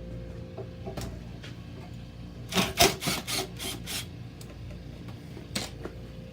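Screwdriver backing a screw out of the metal motor bracket of a Blizzard machine: a quick run of scraping clicks about two and a half seconds in, with single clicks before and after. A steady low hum runs underneath.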